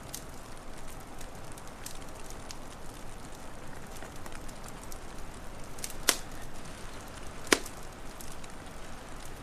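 Wood fire crackling: a steady hiss with scattered small ticks and two sharp pops about six and seven and a half seconds in.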